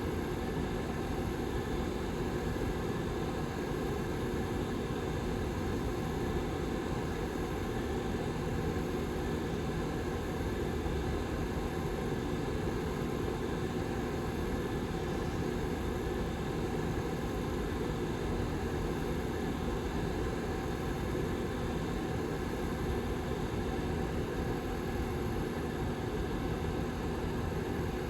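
Rear fan of a Lasko 755320 tower heater running steadily: an even whoosh of moving air with a faint low hum.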